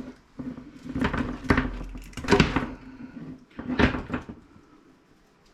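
Several sharp knocks and clatters, about five in all with the loudest past the middle, from parts of a dismantled CRT monitor being handled and set down on a work surface, over a faint steady hum.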